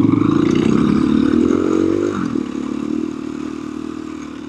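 Four-stroke single-cylinder dirt bike engine running under throttle, revving up about a second in, dropping off sharply near the middle, then running lower and quieter.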